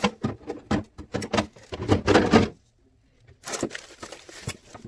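Quick knocks and clatters of kitchen items being handled during fridge cleaning, followed after a short pause by a brief rustling scrape.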